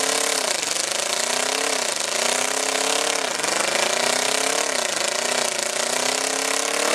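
Demolition derby car's engine revving hard over and over. Its pitch climbs for about a second, then falls away sharply, about five times, over a rough, hissing din.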